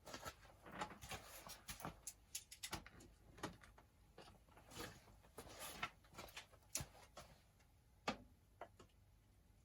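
Faint, scattered clicks and light knocks at irregular intervals, with a sharper knock about eight seconds in.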